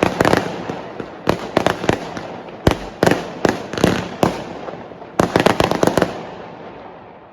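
Consumer fireworks going off: a rapid series of sharp bangs in clusters, each with a trailing echo, ending in a fast volley of bangs and then dying away.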